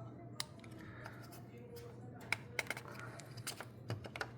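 Scattered light clicks and taps of small parts being handled, uneven in spacing, over a steady low hum.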